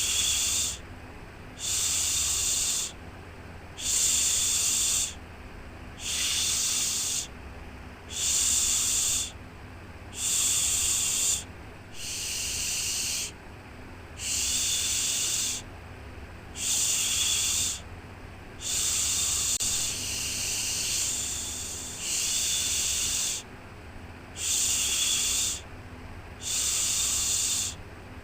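Shushing 'shhh' sleep sound for a baby, repeated in a steady rhythm: a hissing shush about a second long, roughly one every two seconds, with a few softer, longer ones partway through. A low steady hum runs underneath.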